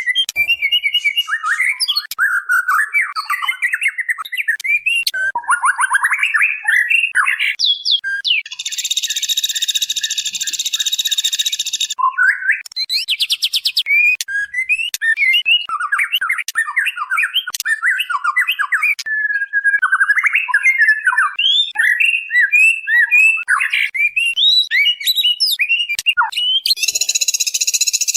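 Female white-rumped shama (murai batu) calling a male: a continuous stream of fast, varied whistled and chirping phrases. It breaks twice into a harsh buzzing note, for about three seconds some eight seconds in and again briefly near the end.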